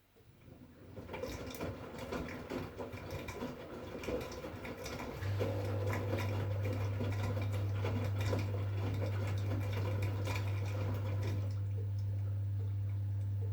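V-Zug Unimatic SL washing machine with water rushing and splashing in the drum. About five seconds in, a steady low hum from the machine joins it. Near the end the splashing dies away while the hum carries on.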